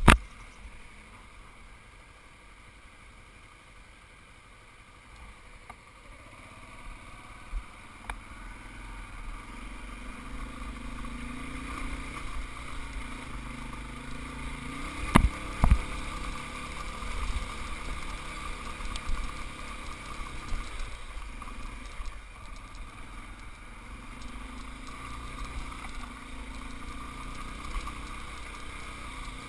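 Motorcycle running on a ride, engine rumble mixed with road and wind noise on the camera, growing louder from about eight seconds in. A sharp click at the very start and two sharp knocks about halfway through.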